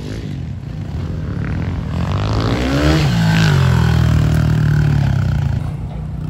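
Pit bike engine revving up: the pitch climbs about two seconds in and holds at its loudest through the middle, then eases off near the end.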